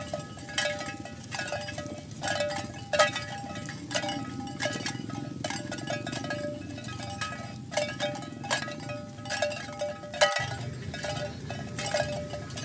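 Cowbells clanking on walking cattle: repeated ringing metallic strikes, roughly one a second and unevenly spaced, over a steady low rumble.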